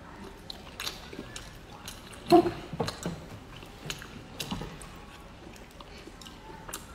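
Close-up chewing and mouth sounds of someone eating rice and meat with chopsticks: scattered soft wet smacks and small clicks, with one louder mouth sound about two and a half seconds in.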